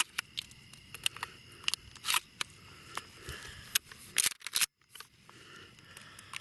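Irregular sharp clicks and rustles of gear being handled at close range, over a faint steady high hum of insects. The sound cuts out briefly just before 5 seconds in.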